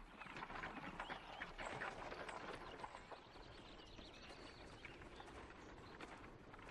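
Faint clip-clop of horses' hooves, densest in the first three seconds and lighter after that.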